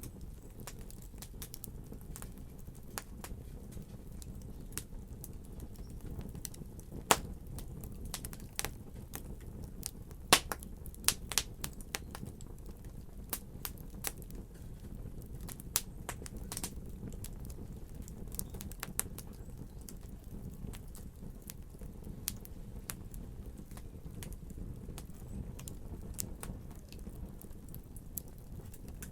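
Wood fire crackling: a steady low rumble with frequent irregular pops and snaps, the sharpest ones about seven seconds in and around ten to eleven seconds in.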